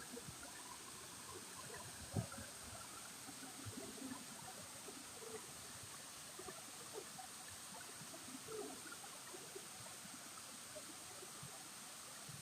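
Faint flowing, trickling water, a steady wash with small scattered splashy ticks and one sharper knock about two seconds in.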